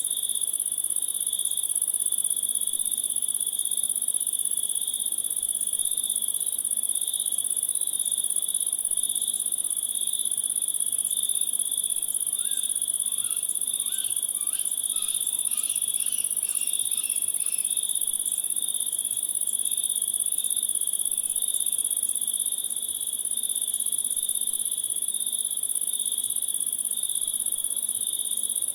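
Steady insect chorus of crickets: a high continuous trill with a second, lower pulsing trill beneath it. About halfway through, a brief run of short chirping notes rises above the chorus for a few seconds.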